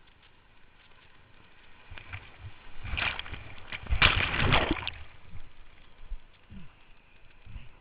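Whitewater sloshing and splashing around a kayak, surging loudest from about three to five seconds in.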